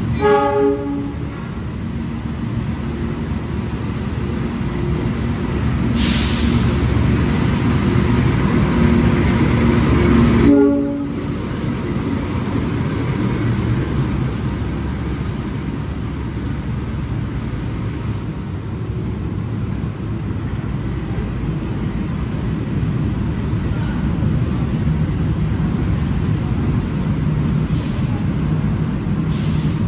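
CC206 diesel-electric locomotive arriving with a passenger train: a short horn call at the start, then the engine and wheels growing louder as it comes in. About eleven seconds in the sound changes abruptly to a steady rumble of the passenger coaches rolling slowly past.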